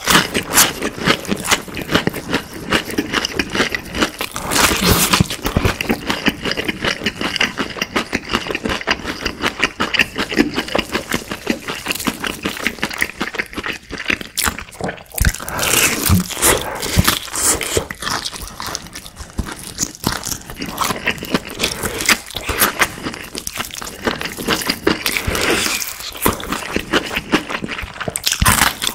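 Close-miked chewing of crispy fried chicken: a dense, irregular run of crunches and crackles from the batter, with wet mouth sounds between them.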